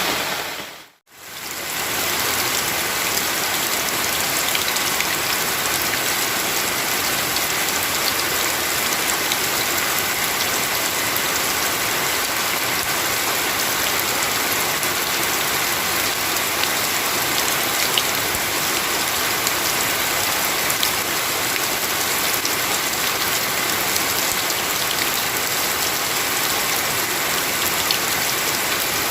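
Heavy rain falling steadily, a dense even hiss with scattered drop ticks. About a second in it dips briefly to near silence and swells back.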